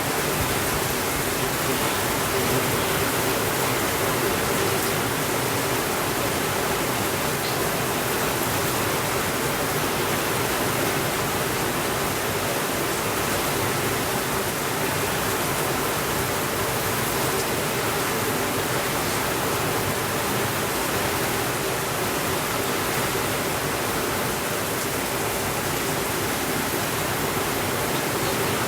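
Steady rainfall, an even hiss of rain with no changes in level.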